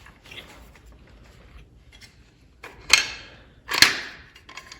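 Two sharp clacks a little under a second apart, with a few faint clicks around them, from the adjustment mechanism of a DeWalt DCS573B circular saw being handled.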